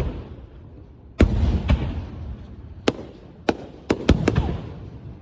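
Fireworks bursting: a loud bang about a second in with a rumbling echo, then several more sharp bangs, with a quick run of them near the end.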